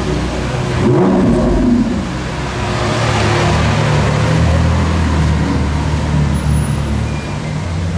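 Lamborghini Aventador SVJ Roadster's V12 running at low speed as the car drives slowly past. The engine note swells and rises briefly about a second in, then carries on steadily.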